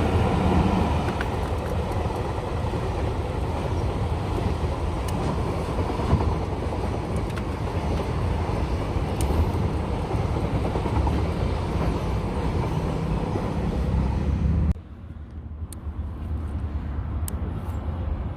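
Train passing over rails, a steady rumble and clatter of wheels that cuts off sharply about fifteen seconds in, leaving a quieter background with a few sharp clicks.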